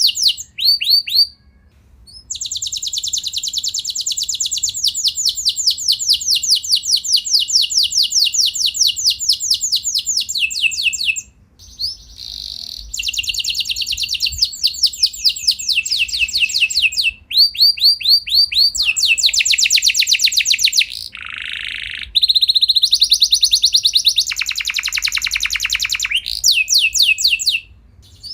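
Canary singing long rolls: fast trills of rapidly repeated short notes, one tour after another with brief pauses between, the note type changing every few seconds and some tours dropping lower in pitch.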